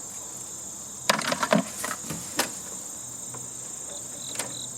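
A brief clatter of clicks and rattles about a second in, with single knocks later, as wires and metal parts of the heating and air-conditioning unit are handled. Under it runs a steady high-pitched insect chorus.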